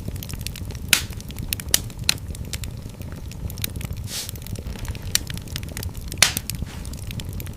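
Wood fire in a fireplace crackling, with several sharp pops over a steady low rumble of the flames; the loudest pops come about a second in and about six seconds in.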